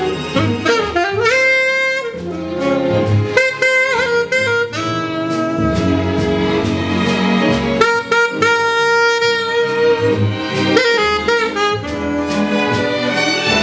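Jazz music with a saxophone playing the lead line, mixing held notes with quicker phrases, over a rhythm section with drums.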